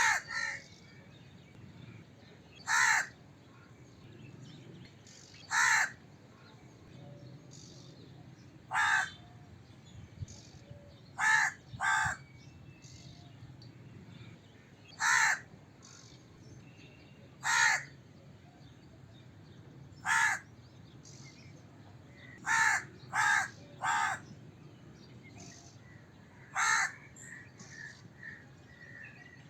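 A crow cawing: single harsh caws every two to three seconds, with a quick run of three caws a little after twenty seconds in.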